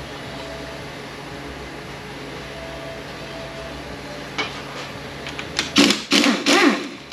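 A power tool run in about three short, loud bursts near the end, its whine bending up and down in pitch, which fits bolts being run out during transmission teardown. Before that, a steady low hum and a single click.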